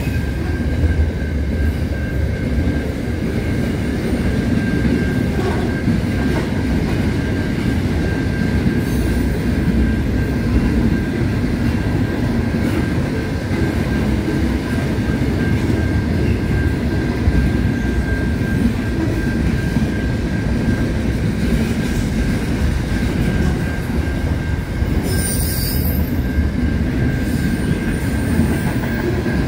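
Freight train wagons rolling past: a steady rumble of steel wheels on rail with a thin, steady high tone running through it, and a brief higher squeal near the end.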